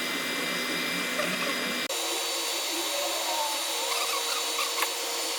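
Back-glass removal laser machine running: a steady whirring hum with several high steady tones, whose pitch pattern changes abruptly about two seconds in.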